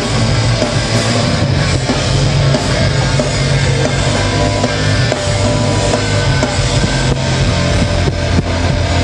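Live rock band playing loudly, a dense and continuous full-band sound of guitars, bass and drums.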